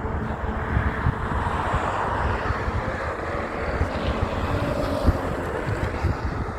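A heavy truck driving past close by: steady tyre and engine noise, with wind buffeting the microphone.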